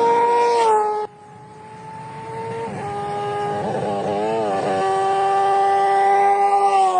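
Motorcycle engine running at very high revs with a high, steady wail. It is cut off abruptly about a second in, then comes back and builds up again, wavering briefly in pitch midway and dipping slightly near the end.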